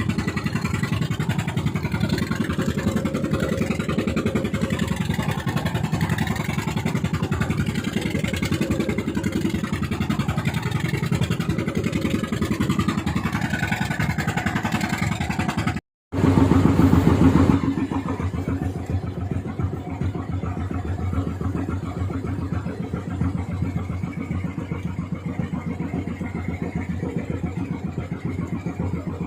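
Fishing boat's engine running hard at full throttle with a dense, steady firing beat. About halfway through the sound cuts out for a split second, comes back louder for a second or so, then settles to the same steady running.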